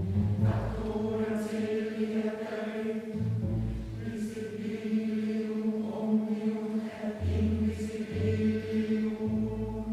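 Mixed choir singing with a chamber orchestra: held chords over a low bass line that moves to a new note every second or so.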